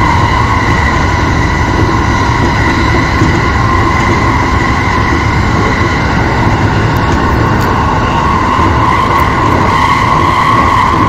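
Electric commuter train running at steady speed through a tunnel, heard from the cab: a loud, even rumble of wheels on rail with a steady high-pitched whine over it.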